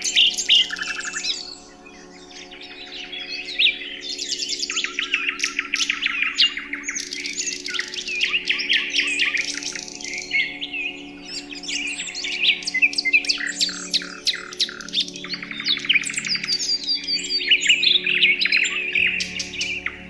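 Many birds chirping and trilling at once in a dense, overlapping chorus of short high calls, over a soft, steady musical drone.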